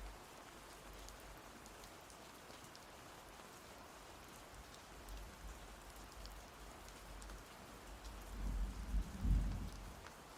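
Steady rain falling, with scattered drops ticking. Near the end, a low roll of thunder swells and fades.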